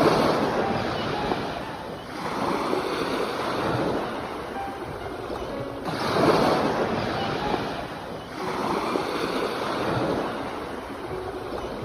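Sea waves breaking and washing in, the surf swelling and falling back in surges every few seconds, loudest at the very start and again about six seconds in.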